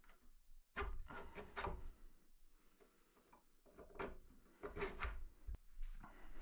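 Wooden table legs and boards being handled: irregular knocking and rubbing of wood in two clusters, with a single sharp click near the end.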